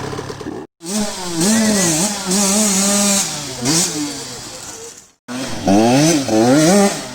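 Two-stroke motocross dirt bike engine revving hard and easing off as it is ridden round the track, its pitch rising and falling with the throttle, with several quick up-and-down revs near the end. The sound cuts off abruptly twice.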